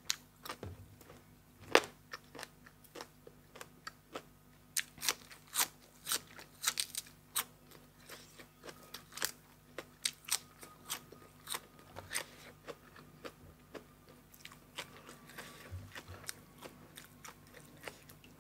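A person eating crisp food from a plate of som tam with raw shrimp and fresh vegetables: an irregular run of sharp crunches and chewing.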